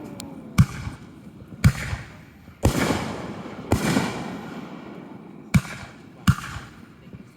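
Fireworks exploding overhead: about six sharp bangs, each trailing off in a rolling echo. A falling whistle fades out at the very start.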